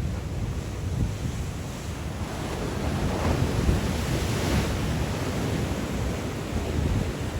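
Sea waves breaking on the shore in a strong wind, with wind buffeting the microphone; a wave rushes in more loudly about midway.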